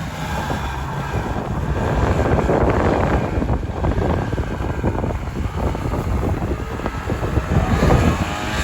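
Snowmobile engine running under way, with wind buffeting the microphone.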